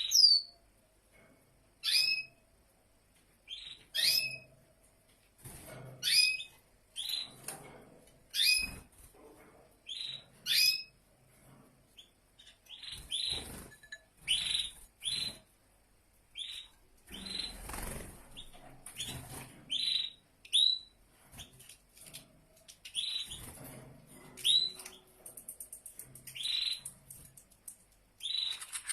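A small songbird giving repeated short, sharp chirps: spaced about two seconds apart at first, then coming closer together, about one a second.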